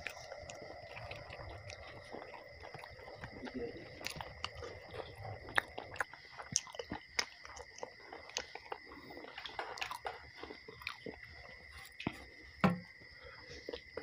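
A person chewing roti and mashed potato close to the microphone, with irregular wet mouth clicks and smacks and one louder knock near the end. A steady high-pitched tone runs underneath.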